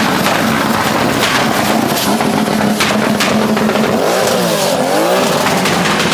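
Loud car engines running, with one engine revving up and back down about four seconds in.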